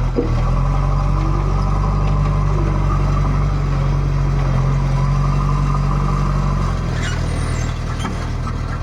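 JCB 3DX backhoe loader's diesel engine running steadily under work. Its speed picks up about a quarter second in and drops back near seven seconds.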